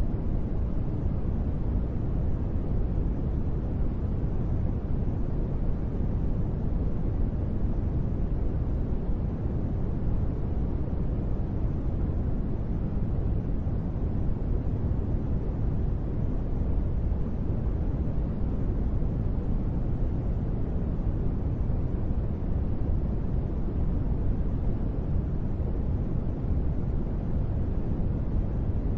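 Steady, even noise, deep and muffled with no bright hiss on top: a sleep-aid track of gentle rain.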